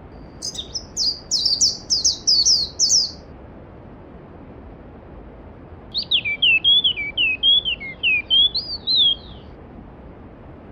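A songbird singing two phrases of rapid, repeated whistled notes, the first higher-pitched and the second lower and more varied, over the steady rush of a mountain stream.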